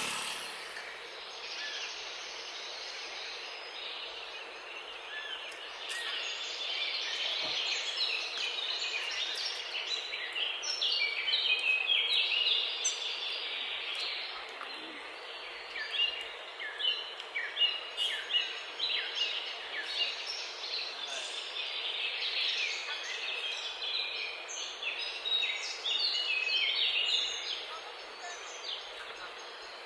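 Many small birds chirping and calling together in a busy chorus over a steady background hiss; the calls are short and quick, thickest through the middle and thinning near the end.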